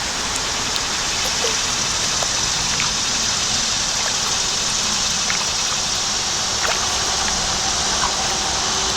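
Steady rush of flowing creek water, with scattered small drips and splashes.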